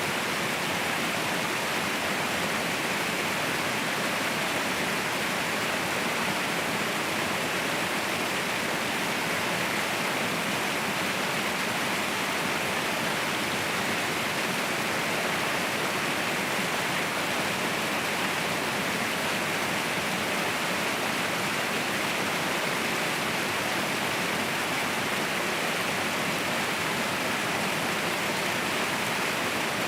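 Mountain waterfall: a steady, unbroken rush of falling water, even throughout and strongest in the middle-high range with little deep rumble.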